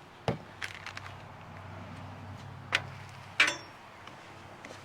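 Sharp clicks and clacks of cooking gear being handled at a griddle: one just after the start and two louder ones past the middle, over a faint steady low hum.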